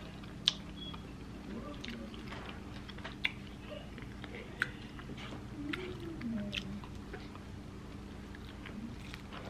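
Close-up chewing and soft mouth sounds of someone eating fried chicken and mashed potatoes. A fork clicks sharply against the plate three times, with a low steady hum underneath.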